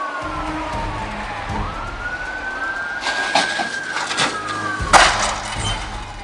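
Emergency vehicle siren wailing, its pitch sliding slowly down and back up, over road noise. A few sharp knocks come about three seconds in, and a loud, short burst of noise follows about five seconds in.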